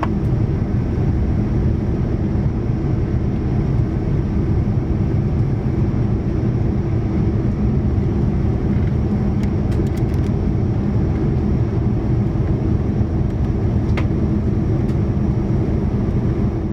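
Steady drone of a Boeing 787-9 heard inside the passenger cabin in flight: engine and airflow noise with a low hum. A few faint clicks come about ten and fourteen seconds in.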